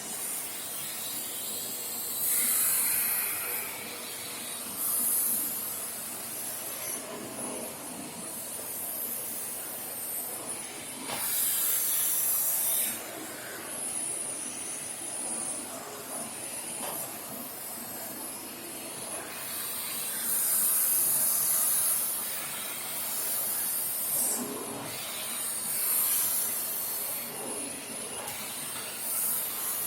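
Vacuum cleaner running with a steady hiss that swells into louder, higher surges every few seconds as the nozzle is moved.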